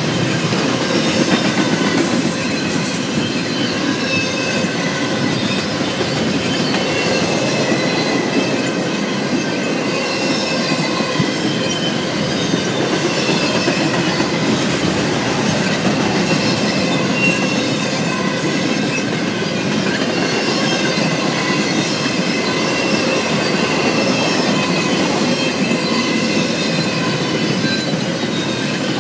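Freight train cars rolling past steadily, their steel wheels squealing against the rail in several high, wavering tones over the rumble of the train, with a few sharp clicks from the wheels.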